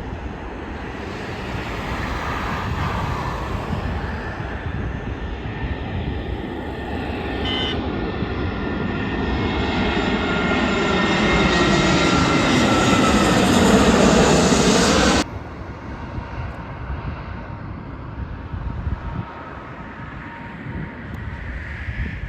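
Jet airliner on landing approach passing close by: the engine noise builds to its loudest with a falling whine as it passes, then cuts off suddenly about fifteen seconds in, leaving a quieter low rumble.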